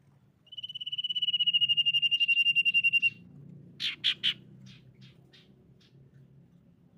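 Common iora singing: one long, slightly falling whistle with a fast flutter, held about two and a half seconds, then three sharp chirps in quick succession and a few fainter short notes.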